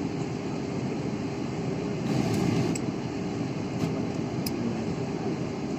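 Steady hum of an airliner cabin, the ventilation and aircraft noise running at an even level, with a few faint clicks in the middle.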